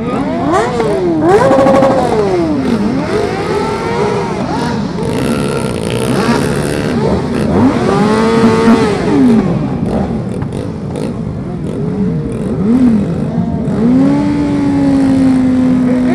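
Several sport motorcycle engines revving, their notes rising and falling over one another, with one engine held at steady high revs near the end.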